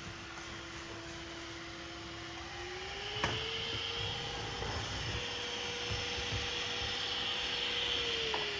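Robot vacuum's motor running with a steady whine and hiss; the pitch rises about three seconds in as it speeds up, holds, then drops back near the end. A sharp click as the pitch rises.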